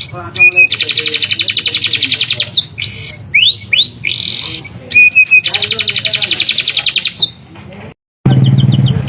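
Domestic canary singing: long, fast rolls of rapidly repeated high notes, with short rising and falling whistled sweeps between them. The song drops out briefly near the end, then resumes.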